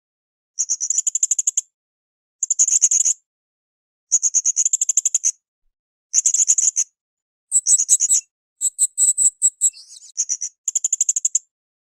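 Blue-crowned hanging parrot (srindit) calling: high-pitched, rapidly pulsed trills of about a second each, repeated every two seconds or so, with a busier, more varied run of notes about two-thirds of the way through.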